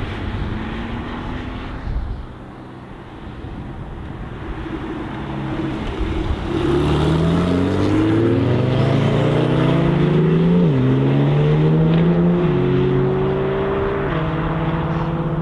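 Sports car accelerating hard through the gears: after rough wind and road noise, the engine note comes in about six seconds in, climbs and drops back at each of a few upshifts.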